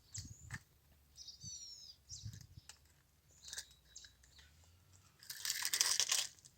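Scattered small clicks and knocks, with a bird giving a few quick falling chirps about a second and a half in, then a loud rush of noise about five seconds in lasting just over a second.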